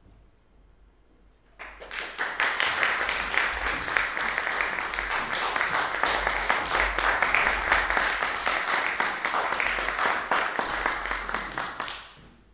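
Audience applauding: it starts suddenly about a second and a half in, keeps up steadily for about ten seconds, and dies away near the end.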